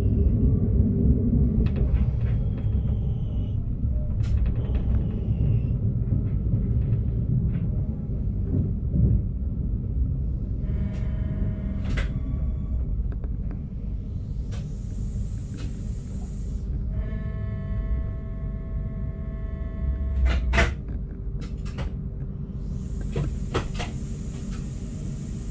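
Cab of a Stadler GTW train creeping through station trackwork: a steady low rumble with scattered clicks and knocks from the wheels, two spells of high pitched squeal, and two bursts of air hiss, the second near the end as the train draws up to a stop.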